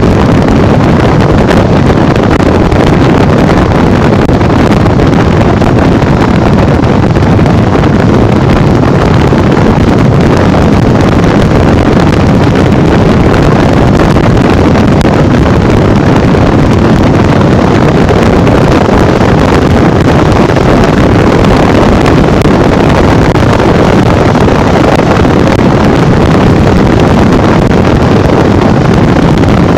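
Wind rushing over the microphone over the steady running of a Honda Bros 150 motorcycle's single-cylinder engine, ridden at speed: a loud, even noise with no breaks.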